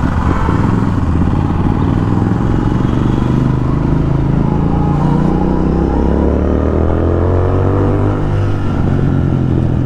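Royal Enfield Continental GT 650's parallel-twin engine running loud through an aftermarket Thrive exhaust while riding in traffic, kept low in the revs. About halfway through it pulls up in pitch for a few seconds, then holds steady.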